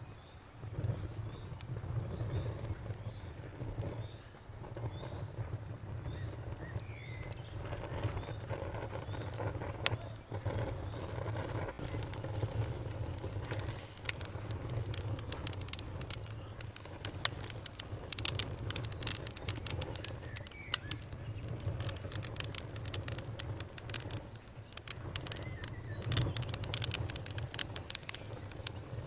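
Campfire crackling: a steady low rumble of burning wood with many sharp pops and snaps, growing busier about halfway through. A high, pulsing insect trill runs through the first third, with a few faint bird chirps.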